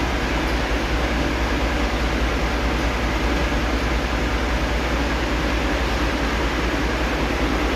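Steady mechanical drone: a constant low hum under an even rushing noise, with no change in level.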